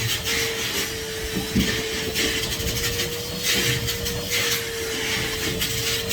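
Henry HVR200 620 W canister vacuum cleaner running with a steady whine, the nozzle hissing in repeated strokes roughly once a second as it sucks over the stairs.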